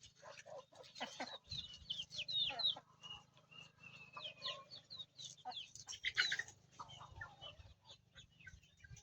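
Chickens clucking, mixed with many short, high gliding peeps in quick succession during the first half and a louder call about six seconds in.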